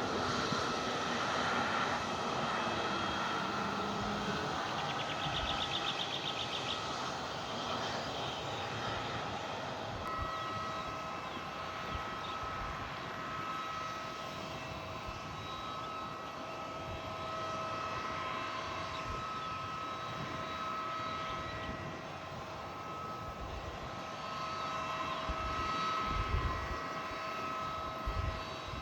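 Airliner engines running with a steady whine of several held tones over a broad rush of noise, the tones coming in clearly about ten seconds in.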